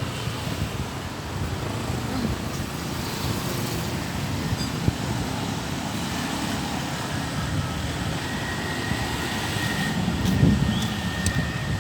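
Steady outdoor traffic noise, a low continuous rumble, briefly louder about ten seconds in, with a faint high steady tone over the last few seconds.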